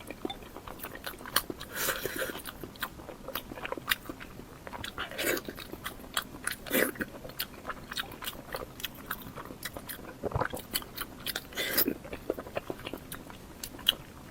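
Close-miked eating: chewing and biting mouth sounds made of many irregular sharp wet clicks, with a few louder bites.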